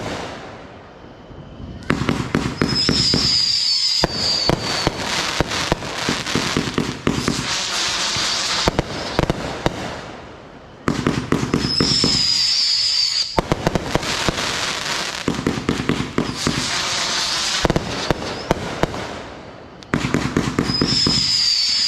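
Consumer fireworks going off: three surges of rapid crackling pops, about nine seconds apart. Each opens with a high whistle and fades before the next.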